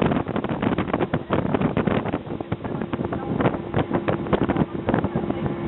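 Wind buffeting the microphone on a moving boat, crackling irregularly over the steady hum of the boat's motor.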